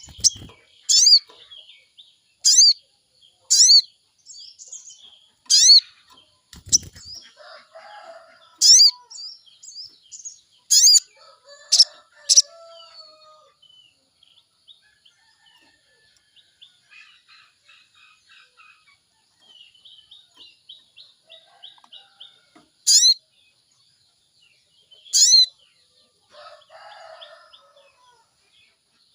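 Sogon bird calling: loud, sharp calls that each sweep down in pitch, repeated about once a second through the first half and twice more near the end, over softer twittering.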